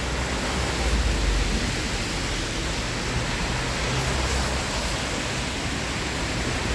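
Heavy rain falling, a steady hiss with a low rumble beneath it.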